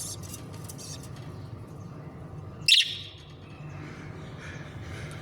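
Budgerigar chicks chirping, with a quick run of high chirps at the start and one short, loud call a little past the middle, over a steady low hum.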